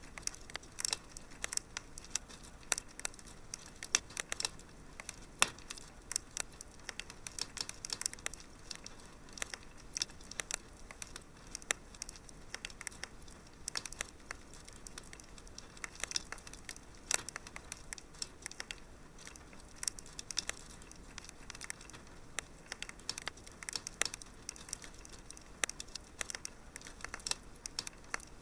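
Wood fire crackling in a fireplace: a steady soft hiss with frequent irregular pops and snaps, a few louder ones scattered through.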